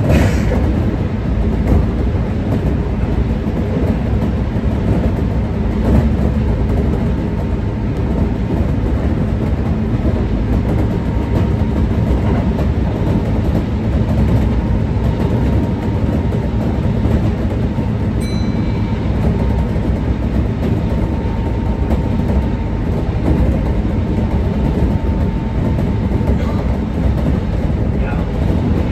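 Kintetsu 1620 series electric train running at speed: steady rumble of wheels on rail with a faint steady whine, and a couple of sharp knocks from the track.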